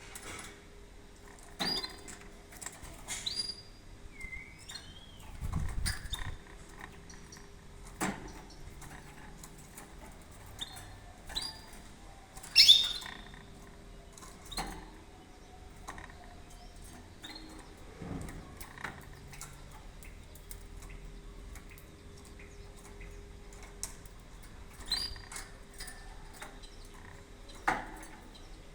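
Canary giving short, scattered chirps, some sliding up or down in pitch, with sharp clicks between them and a low thump about six seconds in. The loudest chirp comes near the middle.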